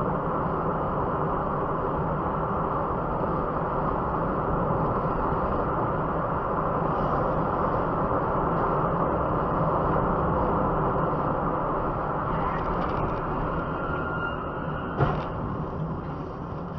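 Steady road and engine noise of a moving car heard from inside the cabin, with a single sharp knock about fifteen seconds in. The noise fades near the end.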